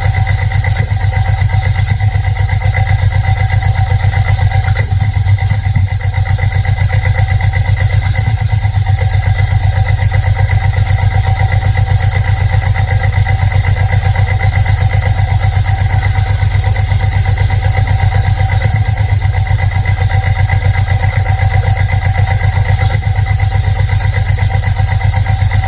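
Chevy S-10 pickup engine idling steadily at an even, unchanging speed.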